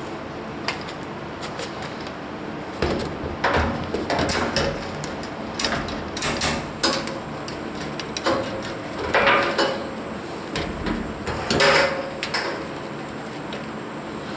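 Irregular knocks, clunks and clatters of things being handled and set down, in bunches a few seconds apart, over a steady low hum.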